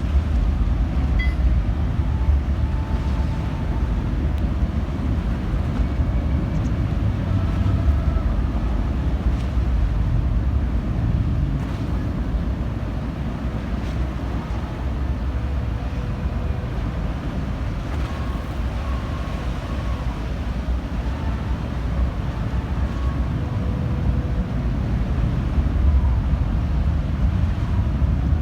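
Steady low rumble of the car ferry Katsuragi's engines and machinery, with wind on the microphone.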